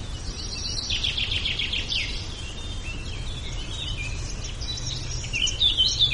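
Birds chirping and singing, with a fast trill about a second in and busier chirping near the end, over a steady low rumble.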